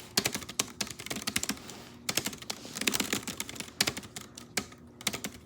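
Fast typing on a small portable Bluetooth keyboard: a dense, uneven run of light key clicks.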